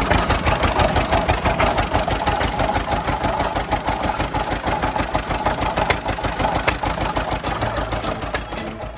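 Vintage tractor engine running steadily, with a rapid, even train of firing pulses.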